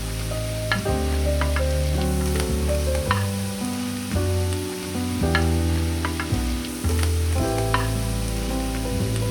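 Food sizzling in a frying pan as it is stirred, with a utensil clicking against the pan now and then. Background music with held chords and a strong bass plays underneath.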